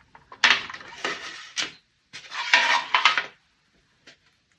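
Watercolor brush working paint in a hard palette, scrubbing and clicking against it in two bursts of about a second each.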